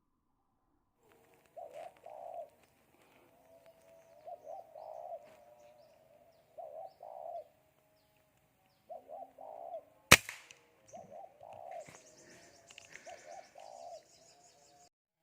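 Spotted doves cooing in short phrases of a few low notes, repeated every two to three seconds. About ten seconds in comes a single sharp air-rifle shot, the loudest sound, and the cooing carries on after it.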